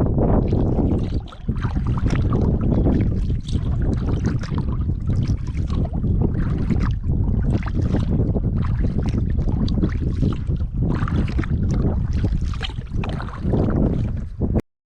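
Wind rumbling on the microphone over repeated water splashes from a kayak paddle's strokes. The sound cuts off abruptly near the end.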